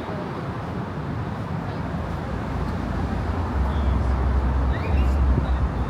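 Steady road traffic noise from cars on the bridge roadway, with a deep rumble that swells past the middle and eases near the end, as of a heavy vehicle passing. Faint voices of passers-by sound under it.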